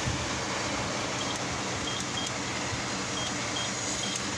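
Car wash pay-station keypad beeping six short times as a six-digit wash code is punched in, over a steady hum of the idling car.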